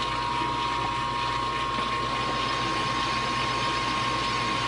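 Metal lathe running steadily with its spindle turning during a quick deburring pass on the workpiece edge: an even hum with a constant high tone.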